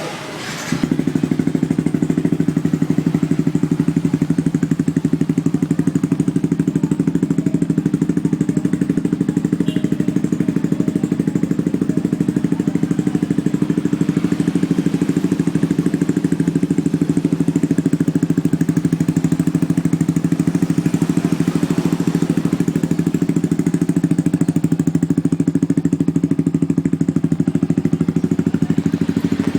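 Yamaha Xabre motorcycle fitted with a LeoVince Cobra aftermarket racing exhaust, idling steadily with an even, rapid exhaust pulse; the sound starts abruptly about a second in and holds the same pitch throughout.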